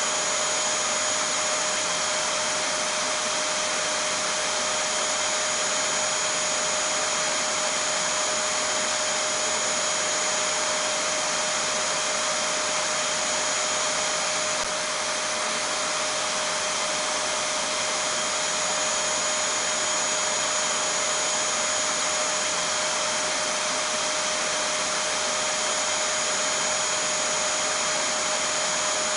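Vacuum cleaner running steadily: an even rushing noise with a fixed motor whine, unchanging throughout, used as white noise to soothe a baby to sleep.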